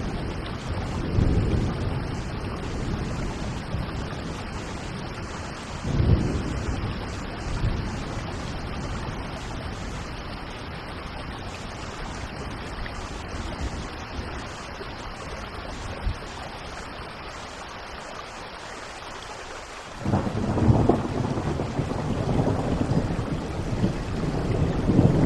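Steady rain falling during a thunderstorm, with thunder rumbling. A short thunderclap comes about six seconds in, and a louder, longer roll of thunder starts suddenly near the end.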